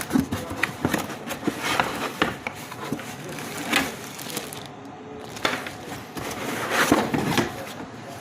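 Unboxing handling noise: a fan's box and packaging being handled, with irregular rustling, scraping and knocks.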